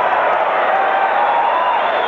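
Crowd noise: a steady hubbub of many voices, with no single event standing out.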